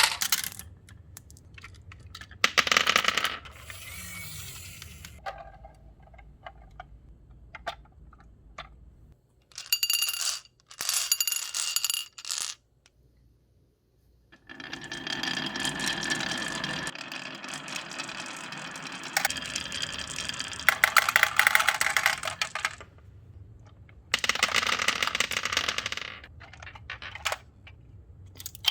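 Marbles rolling and clattering down a handmade course of rain gutters and wooden rails, in several runs separated by pauses. Some stretches carry a clear ringing tone over the clicks.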